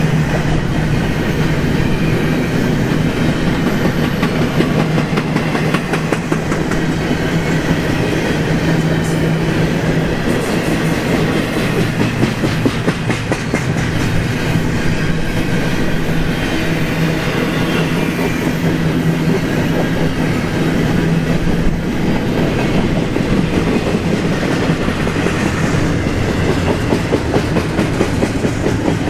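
Double-stack intermodal container train's well cars rolling past at speed: a steady rumble of steel wheels on rail with rapid clickety-clack over the rail joints. Under it runs a steady low hum that fades about two-thirds of the way through.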